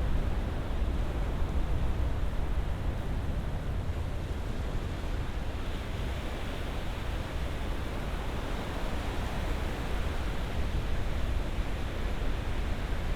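Ocean surf: a continuous wash of breaking waves over a deep rumble, one wave swelling a little louder around the middle.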